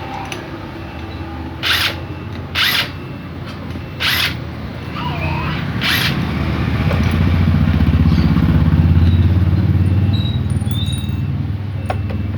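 Four short, sharp hisses in the first six seconds, then a motorcycle engine growing louder and easing off again as it passes.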